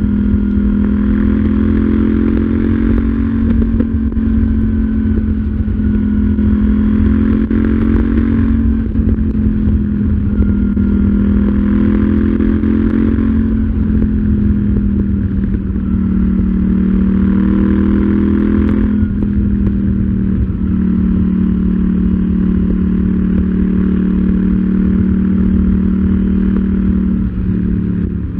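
KTM 790 Duke's parallel-twin engine pulling hard under acceleration, climbing in pitch through the gears with three upshifts a few seconds apart, each a sharp drop in pitch. After that it holds a fairly steady note at cruising speed.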